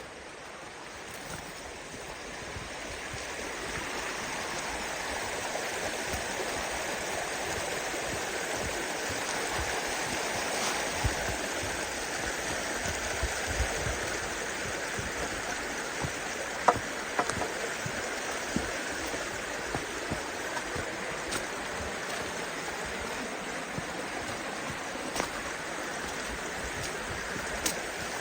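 Kanarra Creek's water rushing steadily; the sound grows louder over the first few seconds and then holds. A few sharp clicks come through it in the second half.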